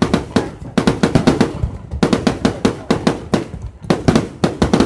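Fireworks going off in a rapid barrage of sharp bangs, several a second, in clusters separated by brief gaps.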